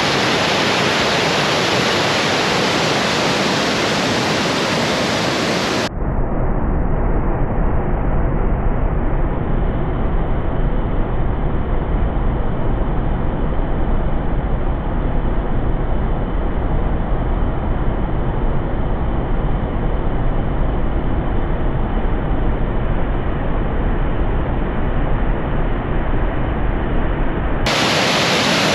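Waterfall rushing, a loud steady roar of falling water. About six seconds in the sound cuts suddenly to a muffled, bass-heavy version of the rush, and switches back to the full, bright roar near the end.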